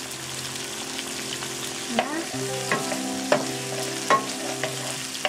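Sliced carrots and green onions sizzling in hot oil in a wok, with a wooden spatula stirring them and knocking against the pan several times from about two seconds in.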